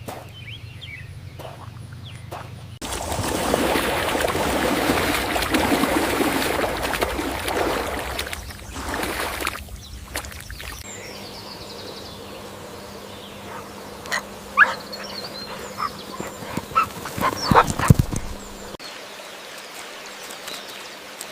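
Farm animal calls from a run of short recordings: a dense, busy stretch of calls from about three seconds in to about ten seconds, then scattered single calls.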